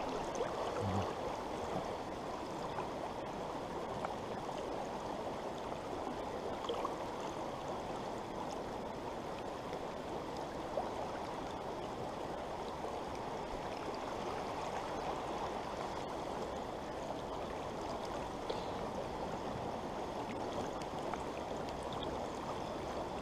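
A small stream running steadily, an even rush of water.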